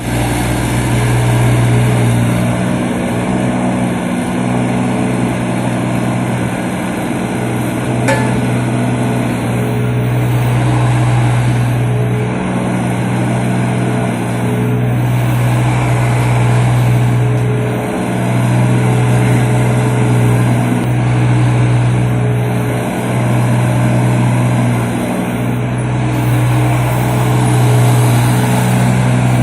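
A 1.8-tonne crawler mini excavator's engine running steadily, its note dipping briefly several times.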